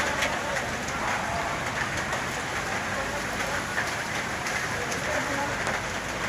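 Steady, even hiss of water with a few faint ticks.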